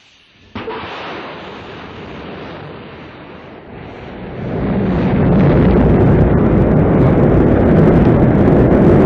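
Rocket engines roaring at launch: a sudden rush of noise about half a second in that builds to a loud, crackling rumble by about five seconds.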